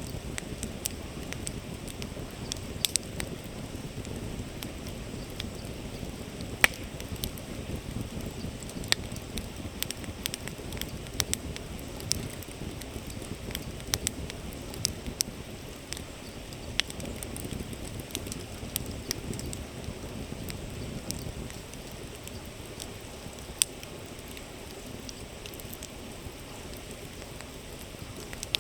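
Campfire crackling, with sharp irregular pops that thin out toward the end, over the steady rush of a flowing river.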